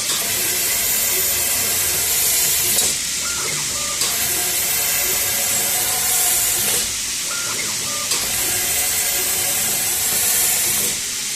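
Fiber laser cutting machine cutting 2 mm stainless steel with compressed-air assist gas: the air jet hisses for about three seconds at a time, three times, with short pauses between cuts, over the machine's steady running.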